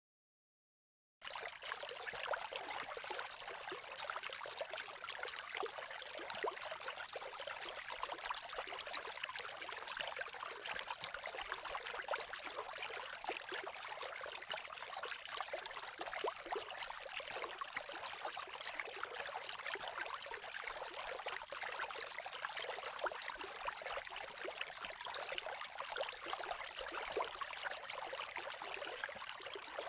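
Creek water babbling steadily, starting about a second in.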